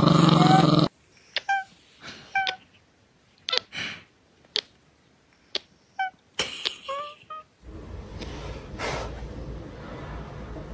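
A Chihuahua growling for about a second, then a series of short high squeaks and clicks, then a steady low hiss.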